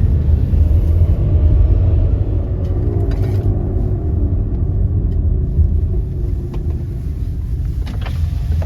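Steady low vehicle engine rumble. A fainter engine note slides down in pitch over several seconds in the middle.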